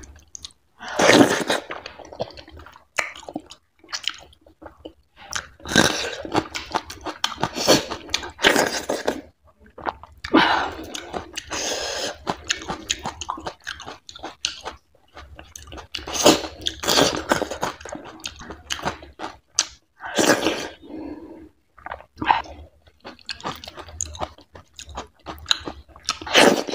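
Close-miked chewing of fatty goat meat curry and finger millet dhido eaten by hand, in bouts of a few seconds separated by short pauses.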